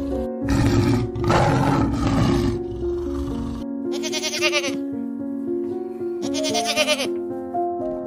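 A tiger's low, rough call for the first few seconds, then a goat bleating twice, each bleat wavering, over steady background music.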